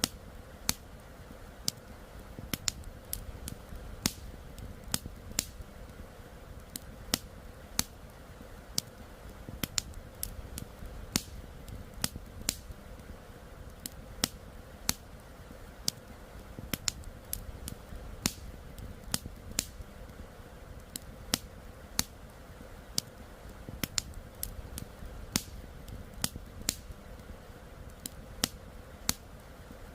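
Wood campfire crackling, with sharp, irregular snaps and pops, one to three a second, over a steady low rush of flowing river water.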